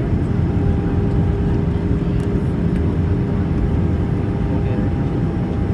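Steady low rumble of an Airbus A320 airliner heard inside the passenger cabin during landing, with a steady hum running through it.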